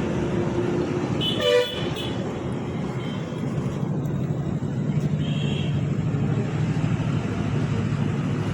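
Traffic noise with a single short vehicle horn toot about a second and a half in.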